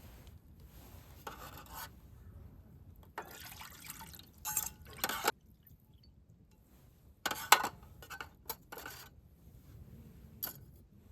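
Liquid being poured and dripping in short spells, with a few sharp clinks and knocks of handled utensils or cookware.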